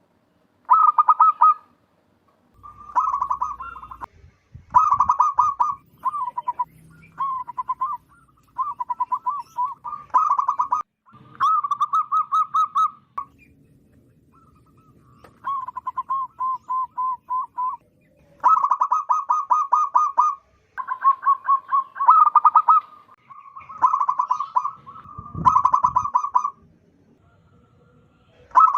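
Zebra dove (perkutut) cooing loudly: phrase after phrase of rapid, stuttering pulsed notes, each phrase about one to two seconds long with short gaps, and a longer break about halfway through.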